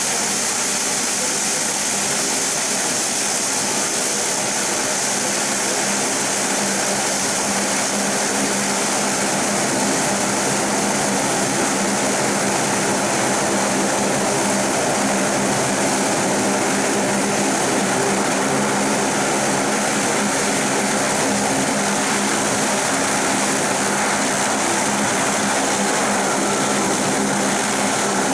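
Saab 340B's twin General Electric CT7 turboprop engines running steadily, a constant propeller drone of several tones over a turbine hiss.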